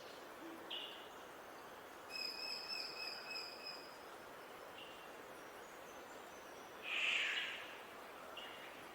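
Wild birds calling over a steady background hiss: a few short chirps, a wavering whistled note lasting about a second and a half, and a louder, noisier call about seven seconds in.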